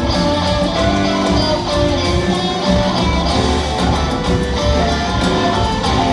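Live rock band playing, with guitar to the fore over steady drums and bass.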